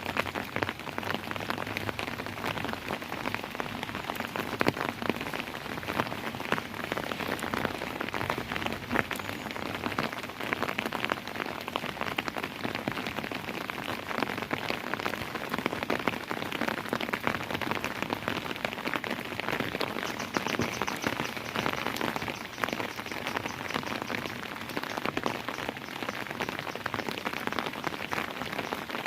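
Steady rain falling, dense with fine pattering drops striking a surface.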